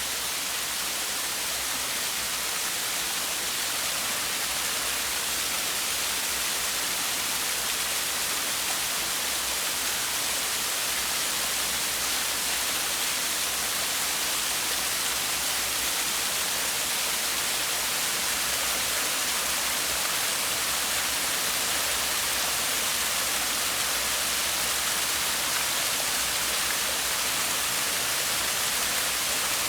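Water pouring over a small waterfall in a mountain stream: a steady, even rush and splash that does not change throughout.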